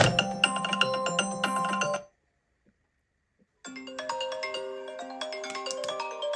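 Two iPhone incoming-call ringtones. The first, a busy marimba-like tune over a steady bass note, cuts off about two seconds in. After a second and a half of silence a second ringtone starts, a melody of longer, held bell-like notes.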